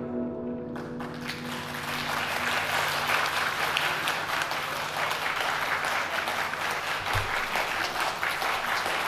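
The last chord of a guzheng rings and fades away while audience applause breaks out about a second in and carries on steadily. There is a brief low thump near the end.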